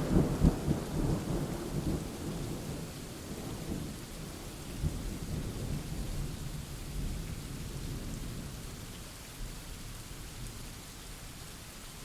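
Thunderstorm: steady rain falling, with a low rumble of thunder at the start that dies away over the first few seconds.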